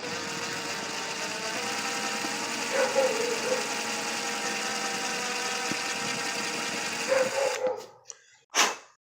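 A small motor running steadily with a faint whine that steps up in pitch about a second and a half in. It stops near the end, followed by a single knock.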